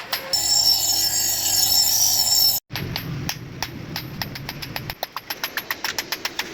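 Workshop metalworking sounds: about two seconds of dense, whining machine noise like grinding, which cuts off abruptly, then rapid, evenly spaced hammer strikes on metal, about five a second.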